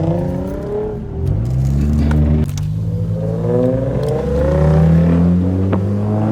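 Car engine accelerating, its pitch rising, dropping at a gear change about two and a half seconds in, then climbing again and holding.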